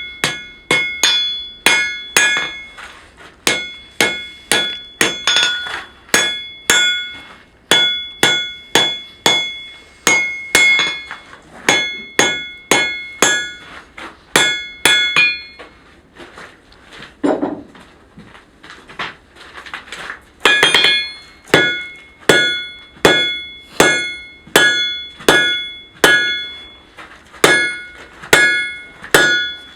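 Blacksmith's hammer striking a hot horseshoe on an anvil, about two blows a second, many of them ringing. The blows are lighter and duller for a few seconds past the middle, then ring again.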